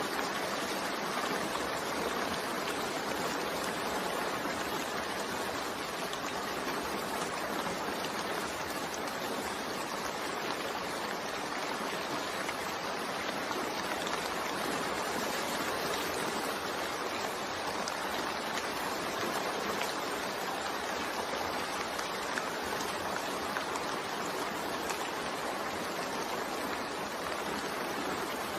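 Continuous rain mixed with white noise: an even, unbroken hiss with no single drops standing out.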